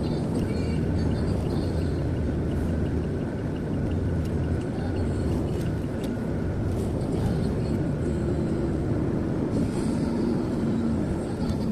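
Steady road and engine noise of a car cruising, heard from inside the cabin.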